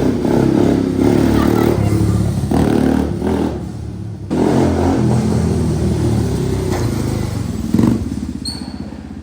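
ATV engine running under throttle as the quad is ridden. It drops off briefly about three and a half seconds in and picks up again. A single knock comes near the end, and after it the engine settles to a steadier, quieter note.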